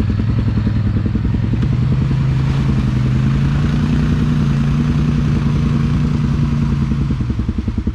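Four-wheeler (ATV) engine under throttle on a trail ride. The engine note climbs over the first couple of seconds, holds steady, then falls away near the end as the rider lets off.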